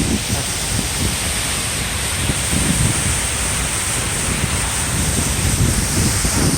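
Steady rushing outdoor noise with irregular gusts of wind buffeting the microphone.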